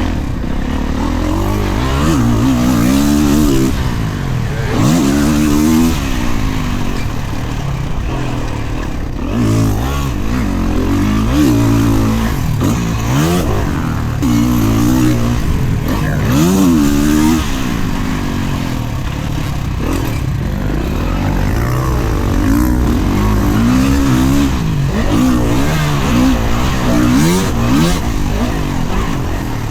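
Dirt bike engine revving hard and backing off again and again as it is ridden around a motocross track, its pitch climbing and dropping every second or two.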